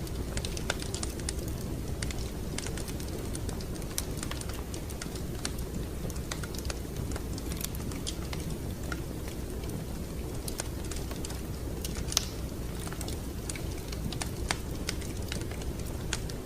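Wood fire crackling in a fireplace: irregular sharp pops and snaps over a steady low rumble, with one louder pop about twelve seconds in.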